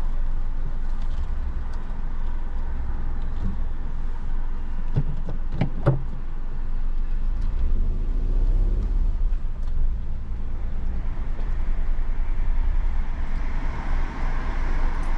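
Steady low rumble of the car's engine and road noise heard inside the cabin as the car creeps slowly into a parking bay, with a few sharp clicks about five to six seconds in.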